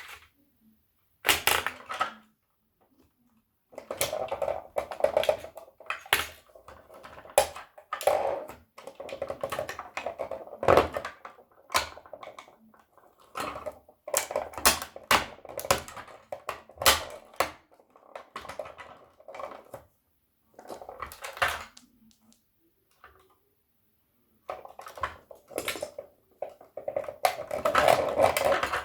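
Toy tow truck and toy car being crushed underfoot: irregular bursts of sharp cracks and crunching as the toys break, with short pauses between.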